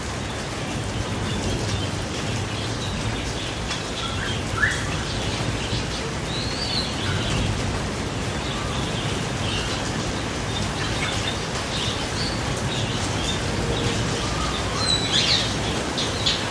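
Garden birds chirping in short, scattered calls over a steady hiss, with a louder cluster of calls near the end.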